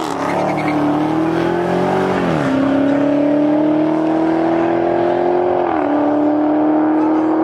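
Street-racing cars accelerating hard away down the road. One engine note dominates, climbing steadily in pitch and dropping sharply at upshifts about two and a half and six seconds in.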